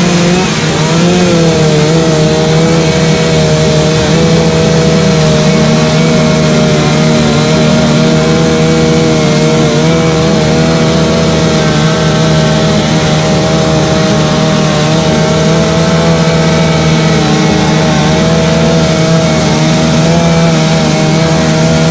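Chainsaw running continuously at high revs while carving wood, its pitch dipping briefly near the start and then holding steady with a slight waver.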